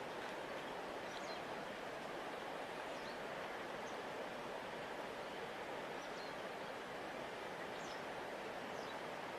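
Steady rushing of a large river flowing along its bank, even and unbroken. A few faint, very short high chirps come through it now and then.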